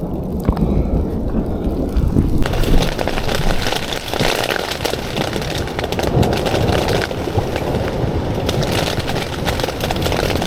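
A rainstorm arriving: rain hiss with many small pattering hits grows suddenly denser about two and a half seconds in, over a constant low rumble of wind.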